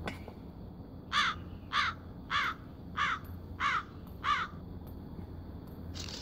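A bird calling six times in a quick, even series, a little under two calls a second, over a steady low hum.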